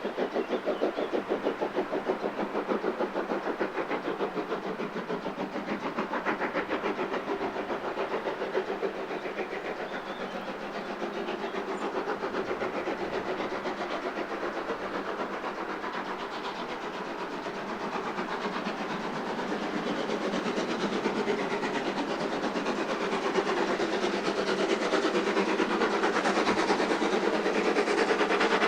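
Train running on the rails with a fast, even pulsing rhythm, growing louder over the last several seconds.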